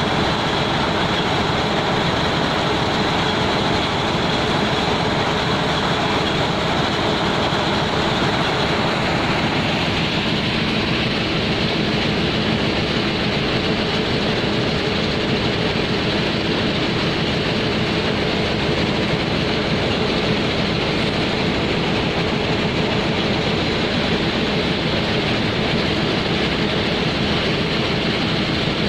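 Steady, loud running of heavy machinery aboard a ship unloading coal onto a barge, a continuous low hum with noise over it; the sound shifts slightly about ten seconds in.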